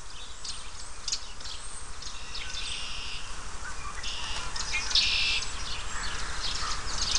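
Wild birds chirping and singing: many short high calls, with two denser trills about two and a half and four seconds in.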